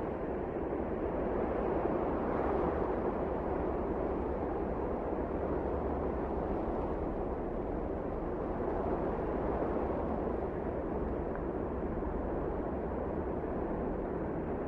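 Strong wind blowing steadily in a blizzard, a dense rushing noise that swells slightly a couple of seconds in.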